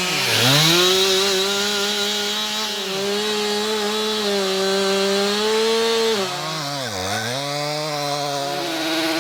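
Chainsaw engine running at high revs. Its pitch drops sharply and climbs back up twice, once right at the start and again about seven seconds in.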